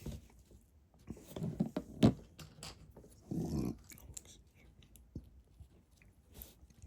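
Small plastic Lego pieces clicking and knocking as they are handled and pressed together, in a string of light irregular clicks, the sharpest about two seconds in. There is a brief low murmur about three and a half seconds in.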